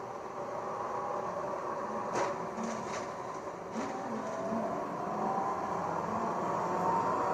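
Gillig hybrid transit bus running, a steady hum with a higher whine that rises in pitch and grows louder from about halfway through. Two knocks are heard, at about two seconds and about four seconds in.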